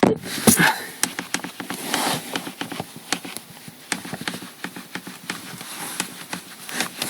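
Car door window glass creaking in its seal, heard from inside the cabin: a quick run of short squeaks and ticks, after a loud knock at the start. The creak comes from the fully raised glass and stops when the glass is lowered slightly.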